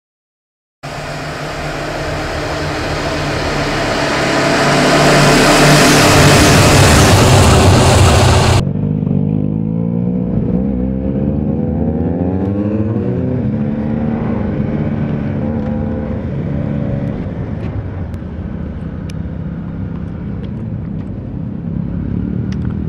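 Honda CB500X parallel-twin motorcycle engine heard from an on-board camera while riding, starting about a second in under heavy wind rush on the microphone. After an abrupt cut, less wind and the engine note rising and falling through acceleration and gear changes.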